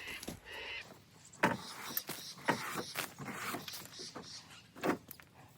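Heavy wooden knocks and thumps, several times: freshly cut firewood rounds being handled and loaded.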